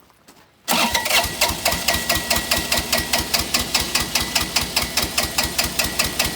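Bobcat 328 mini excavator's diesel engine being cranked over by its starter, starting just under a second in: an even, rapid chugging of about five to six compression strokes a second with a steady starter whine, not catching. It is being cranked with the air filter removed, to test whether a plugged filter is behind its black-smoke overfueling.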